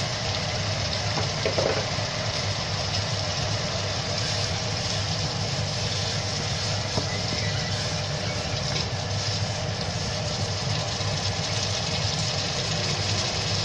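Onions and spices frying in a non-stick wok: a steady sizzle over a constant low hum, as a wooden spatula stirs in the turmeric.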